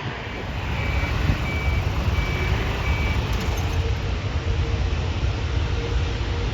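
Jet aircraft engine rumble growing louder, with a faint whine that rises near the end. A reversing beeper sounds five times over the first three seconds.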